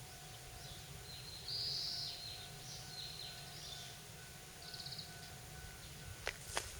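Small birds chirping in short high notes, the loudest a buzzy note about one and a half seconds in, with a couple of sharp clicks near the end.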